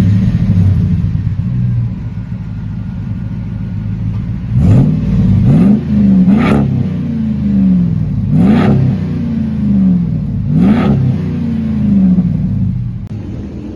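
Ram 1500's 5.7 Hemi V8 exhaust, with the muffler and resonator deleted, idling and then revved in five quick throttle blips, each rising sharply and falling back to idle, the last two spaced about two seconds apart.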